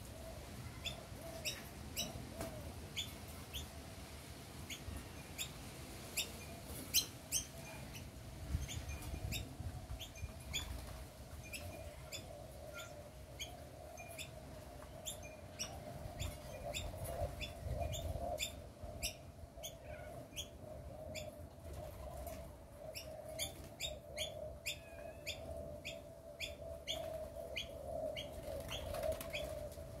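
Backyard birds chirping: short, sharp, high chirps repeating one to a few times a second, over a steady low hum and a faint rumble.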